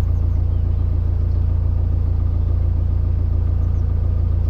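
A loud, steady low rumble that does not change, with little above it.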